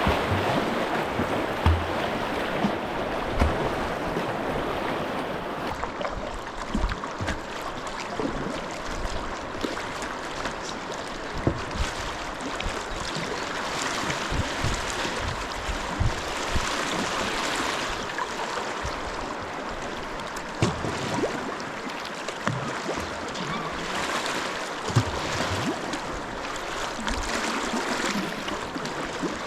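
Fast river current rushing steadily, with scattered short knocks and splashes.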